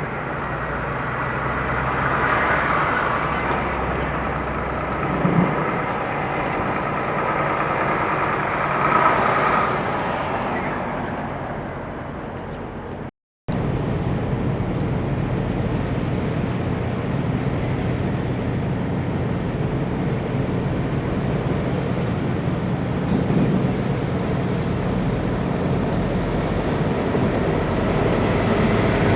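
Diesel semi trucks passing on a road, engine and tyre noise swelling and fading twice. After a sudden cut, a diesel truck engine runs steadily.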